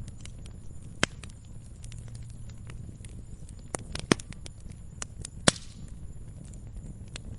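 Wood fire crackling in a fireplace: a low steady rumble of flames with frequent small crackles and three loud sharp pops, about a second in, just after four seconds and about five and a half seconds in, the last followed by a short hiss.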